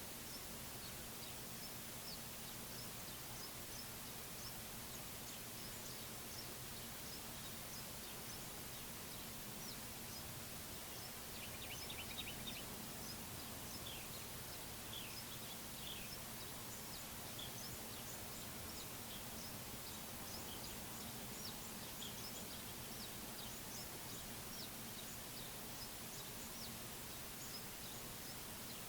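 Faint outdoor ambience with birds chirping: short high calls scattered throughout, and a quick run of repeated notes about twelve seconds in. A low steady hum lies underneath.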